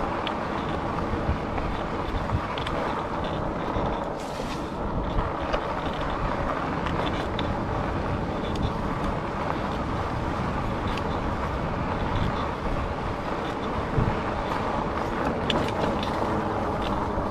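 Steady riding noise from a Rad Rover fat-tyre e-bike heard from a chest-mounted camera: wind on the microphone and tyre rumble, with scattered faint clicks and knocks.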